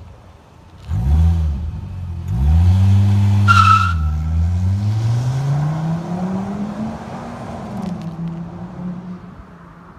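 Car engine with a Flowmaster Super 44 muffler, revved twice and then accelerating, its exhaust note climbing in pitch before levelling off. A short high squeal, like a tire chirp, comes about three and a half seconds in.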